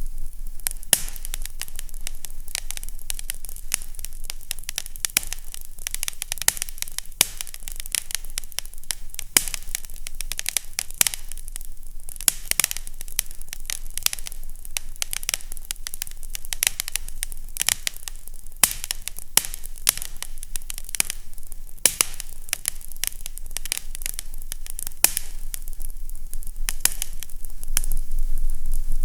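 Fireplace fire crackling: a constant stream of irregular sharp pops and snaps over a soft hiss and a faint low hum, growing a little louder near the end.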